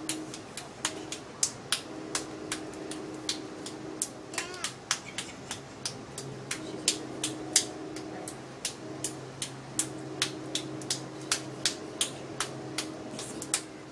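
Moving passenger train heard from inside the carriage: a steady low hum with many sharp clicks and knocks, a few a second, irregularly spaced.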